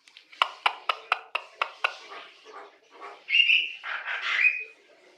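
Javan myna calling: a quick run of about seven sharp clicks, roughly four a second, trailing off into fainter ones, then a louder, longer chattering call with a short whistled note, about three seconds in.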